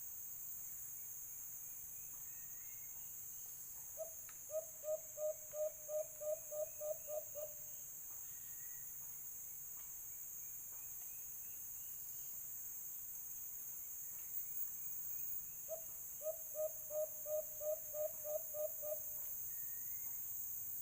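A dove calls twice, each time a run of about ten low hoots that come slightly faster and fade at the end; these are taken to be white-eared brown dove calls. A steady high insect drone runs underneath.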